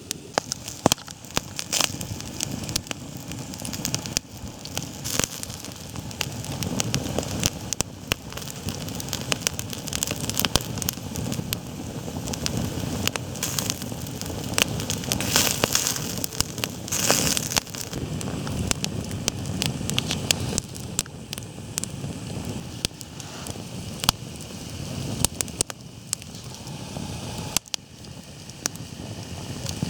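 Wood campfire crackling and popping, many irregular sharp snaps over a steady hiss of the flames.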